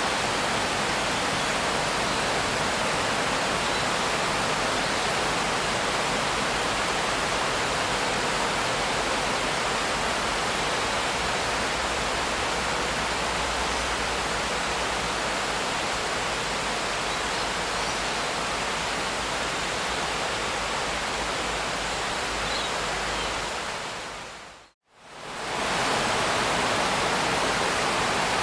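Steady rain, an even hiss spread across all pitches. About 24 seconds in it fades out to a moment of silence and swells back within about two seconds.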